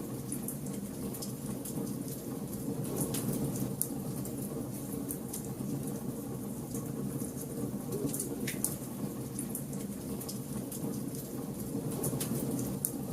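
Bonfire burning: a steady low rumble of flames with scattered sharp crackles and pops, a few louder snaps standing out.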